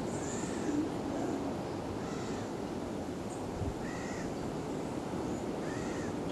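A bird calling four times in short arched notes, about one every two seconds, over a steady outdoor rushing noise.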